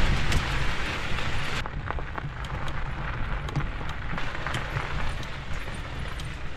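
Electric bike rattling and clattering over a bumpy railroad track bed, with a steady low rumble of the ride.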